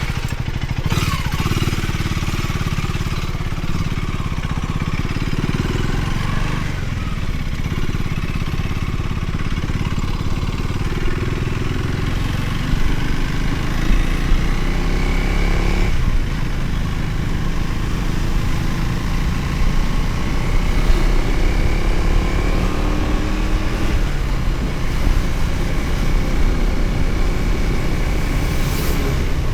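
Motorcycle engine running under way, its pitch rising as it pulls away and shifting up and down with the throttle and gear changes.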